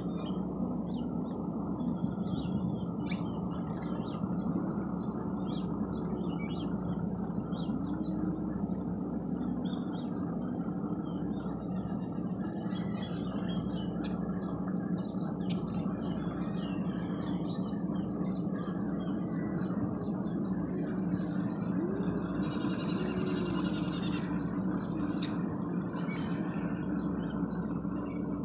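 Small birds chirping repeatedly over a steady low rumble of outdoor background noise, with a brief buzzy trill about two-thirds of the way through.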